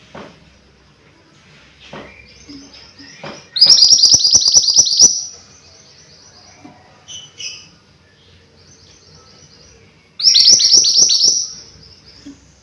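Mantenan gunung songbird singing: two loud bursts of fast, high repeated notes, each lasting about a second and a half, with softer chirps and short phrases in between.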